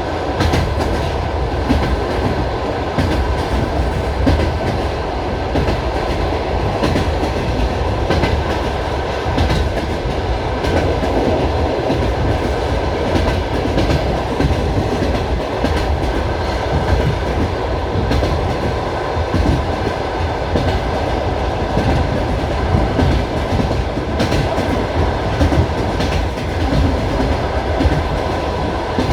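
Passenger train carriage rolling along the track, heard from inside: a steady rumble with the wheels' clickety-clack at rail joints coming as irregular knocks every second or two.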